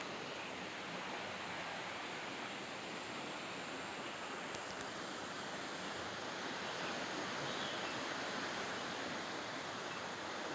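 Steady rush of flowing water, swelling a little in the second half, with two faint clicks about four and a half seconds in.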